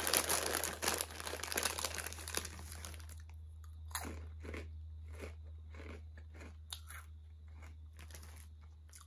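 A person crunching and chewing a mouthful of lime-flavoured puffed chips. Dense crunching for the first three seconds, then slower, separate crunches that grow fainter as the mouthful is chewed down.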